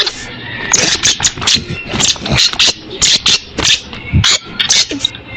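Kulasisi (Philippine hanging parrots) calling with rapid, shrill, high-pitched chirps, several a second.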